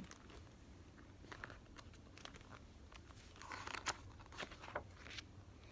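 Faint paper rustling and small clicks of a picture-book page being handled and turned, with the loudest rustle a little past the middle.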